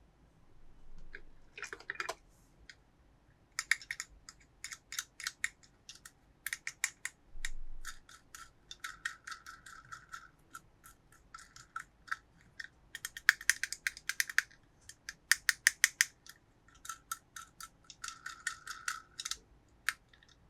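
Plastic toy packaging and toys being handled in an unboxing: bursts of rapid sharp clicks with short stretches of scratchy rustling.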